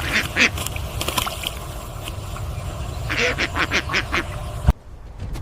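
Duck quacks in quick series, one run at the start and another about three seconds in, over a low rumble; the sound cuts off abruptly near the end.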